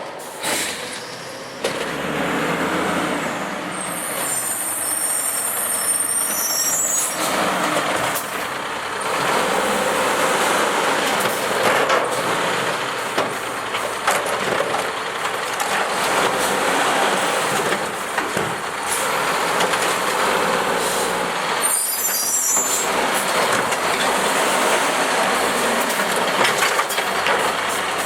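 Garbage truck running, with two sharp air hisses from its air brakes: one lasting about three seconds, starting about four seconds in, and a shorter one about 22 seconds in.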